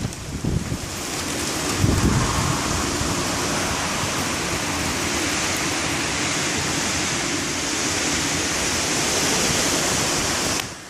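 Severe thunderstorm winds driving heavy rain in a steady, loud roar, with gusts buffeting the microphone about two seconds in.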